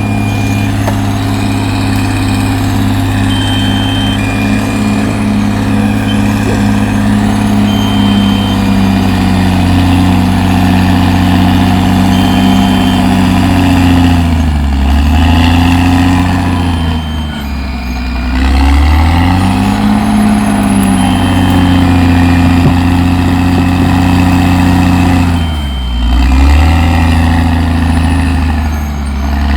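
CAT D6R XL bulldozer's diesel engine running hard, its pitch sagging under load about halfway through and again near the end, then recovering. Short high beeps sound every few seconds.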